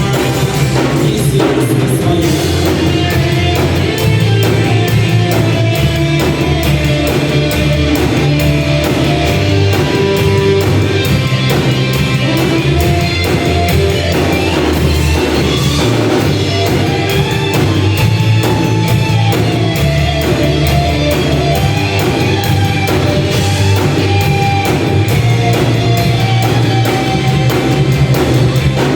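A rock band playing live, with drum kit, bass and electric guitar, in a stretch without words and a steady, even beat.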